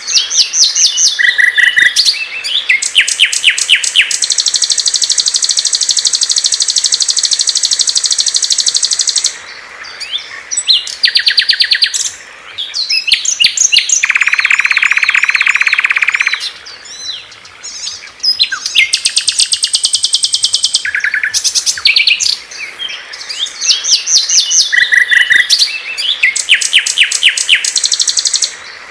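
Small songbirds singing one after another: fast, high chirping trills and twittering phrases. About 14 seconds in there is a lower, buzzy two-second trill, and the same phrases recur near the end.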